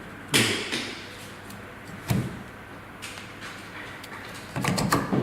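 Metal parts of a deep-well submersible pump knocking and sliding as they are fitted together during reassembly: a sharp knock about a third of a second in that rings briefly, another around two seconds, and a cluster of clicks near the end.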